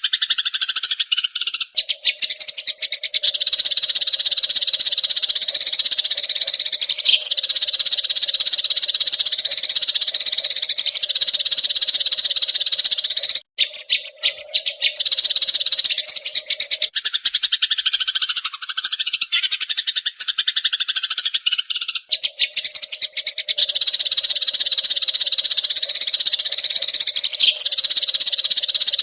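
A flock of Eurasian tree sparrows chirping and chattering in a dense, rapid, unbroken stream. A steady low tone runs under much of it.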